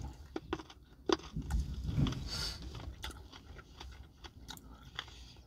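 A person chewing a boiled broccoli stem close to the microphone: irregular wet crunches and clicks of biting and chewing, over a low steady hum.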